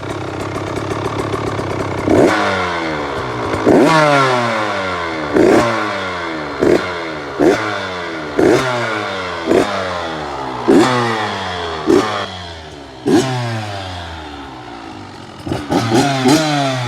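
KTM dirt bike engine idling, then revved in about a dozen sharp throttle blips. Each rev jumps up quickly and falls back slowly toward idle, with a few quick blips close together near the end.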